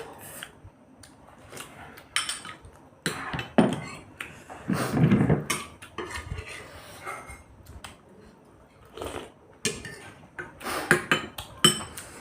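Forks or spoons clinking and scraping against plates during a meal of chowmein, in scattered short clicks with a busier stretch of clatter in the middle.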